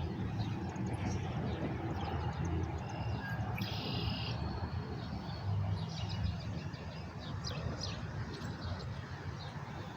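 Small birds chirping in short bursts, one clearer run of chirps about four seconds in and more scattered calls later, over a steady outdoor rush with a low rumble.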